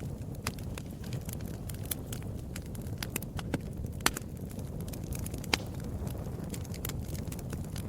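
Wood fire burning with a steady low rush of flame and irregular crackles and pops of burning wood, the sharpest pops about four and five and a half seconds in.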